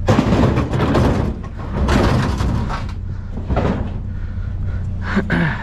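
Loud scraping and clattering of junk and metal being handled, in two main spells with a shorter one later, over a vehicle engine idling steadily.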